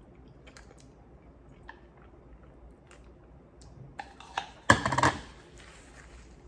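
Eating noodles from a bowl: faint scattered clicks and taps of utensils, then a short cluster of louder noisy sounds about four and a half seconds in.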